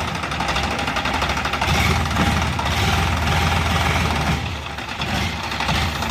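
Diesel tractor engine running with a rhythmic knocking chug, louder in the middle and easing briefly near the end.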